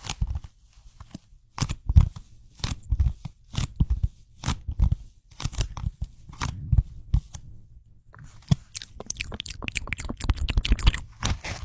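Close-miked ASMR sticky sounds: a sticky surface repeatedly touched and pulled away, giving irregular runs of small crackling, peeling clicks. The sound thins out past the middle, then grows busier again after about eight seconds.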